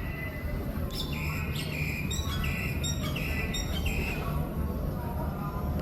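A bird chirping: a run of short, high chirps, about two a second, from about a second in until around four seconds, over a steady low hum.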